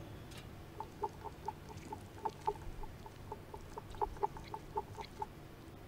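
A bird clucking: short notes, all at the same pitch, repeated a few times a second in uneven runs.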